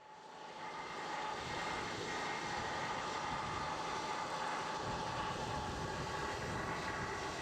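Diesel-hydraulic locomotive running steadily under power: a rough engine rumble with a steady high whine over it, fading in over the first second.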